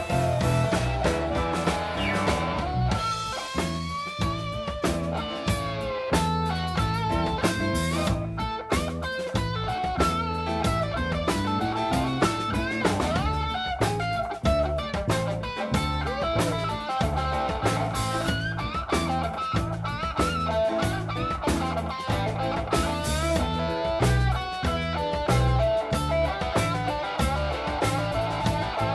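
Blues band playing an instrumental break: an electric guitar leads with bending, gliding notes over bass and a steady drum beat.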